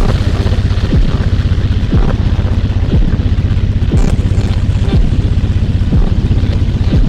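Electronic ambient music: a deep kick drum whose pitch drops quickly, striking about once a second over a low, fast-pulsing bass drone.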